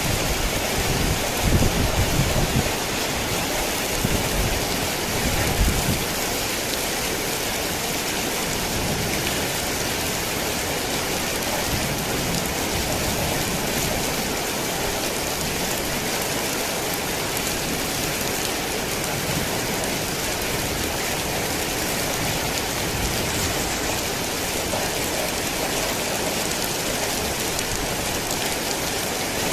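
Heavy rain falling steadily, with low rumbles of thunder during the first few seconds.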